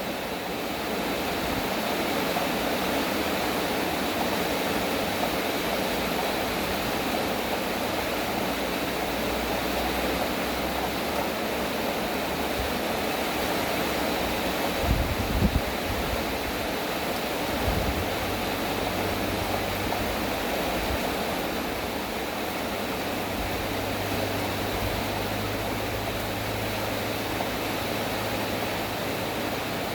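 Steady heavy rain as an even hiss, with short low rumbles of thunder about halfway through.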